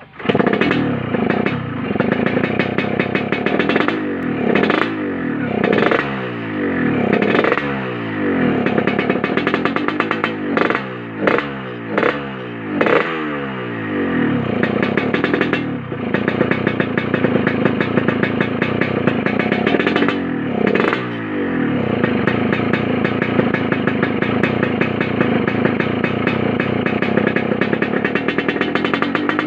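Yamaha RX-King two-stroke single-cylinder motorcycle engine being revved in a string of about eight blips, the pitch falling back after each. From about two-thirds of the way through it holds a steady raised speed. The exhaust has the deep growling 'ngorok' (snoring) note.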